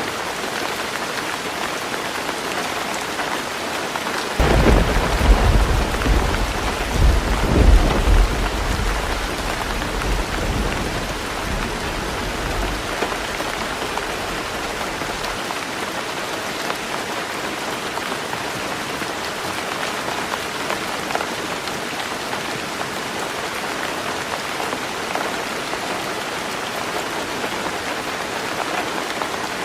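Heavy rain drumming on a tin roof, a steady even hiss. About four seconds in a thunderclap breaks with a couple of sharp cracks and a deep rumble that rolls on and fades away over roughly ten seconds.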